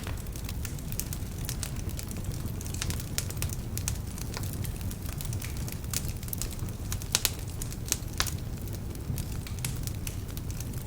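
Wood fire burning in a fireplace: a steady low rumble of flames with frequent sharp, irregular crackles and pops from the logs, a few louder snaps about seven to eight seconds in. Some of the logs are damp, which makes them crackle.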